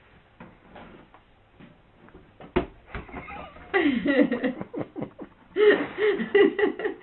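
A sharp knock, then a person's voice in short, unclear phrases, possibly laughing, through most of the second half.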